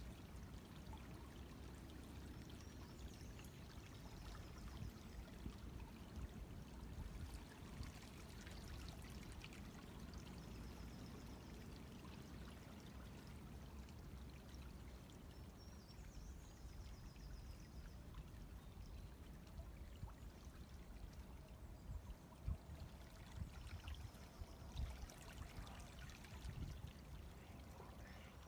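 River water flowing and gurgling steadily at a low level, with a few faint, high bird calls in the background.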